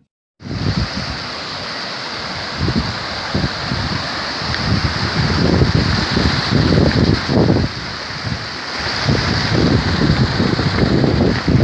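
Wind buffeting the microphone in irregular gusts, over a steady rushing hiss.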